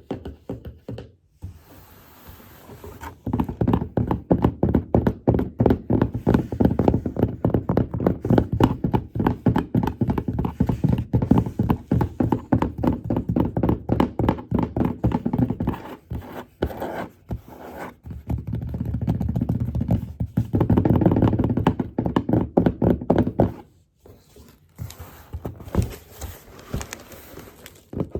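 Fast tapping by hand on a cardboard box, many taps a second, in long runs broken by short pauses: an ASMR tapping trigger.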